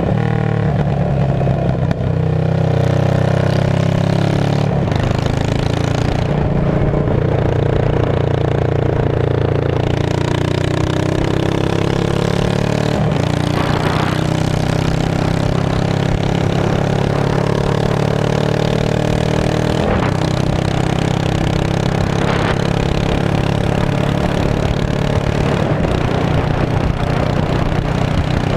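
Straight-piped Yamaha V-Star 650 V-twin running loud, its pitch shifting up and down gently, with a few brief sharp pops.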